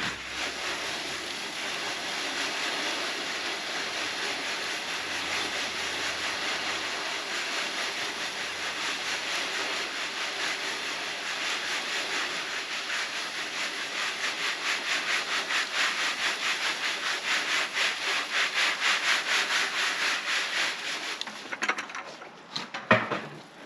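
Hard red wheat being shaken back and forth over a sifting screen: a steady, rhythmic rasp of grain rubbing on the mesh. It grows louder in the second half and stops about two seconds before the end.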